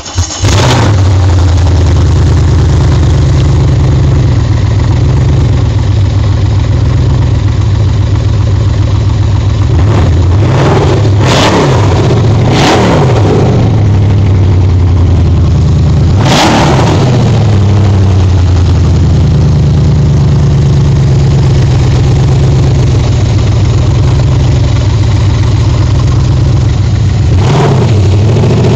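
BMW M60B40 4.0-litre V8 running with no exhaust fitted, open straight from the manifolds, idling loudly and unevenly just after starting. It is blipped five times: three quick revs around ten to thirteen seconds in, one at about sixteen seconds, one near the end. The rough idle comes from long standing without being started and from the lambda sensors being removed.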